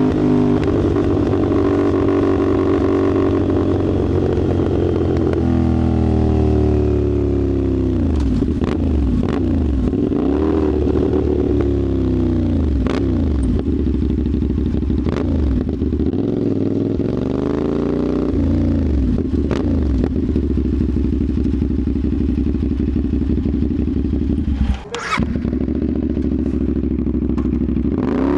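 Motorcycle engine running through an Austin Racing (AR) slip-on exhaust, its revs repeatedly dropping and climbing again. Sharp pops from the exhaust come at several points, about eight times.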